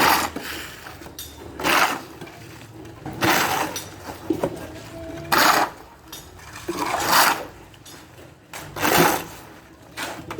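Repeated scraping strokes, one about every two seconds, with light clinks of hard objects between them.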